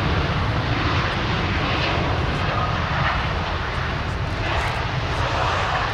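Jet airliner engines running with a steady rushing noise, with wind buffeting the microphone.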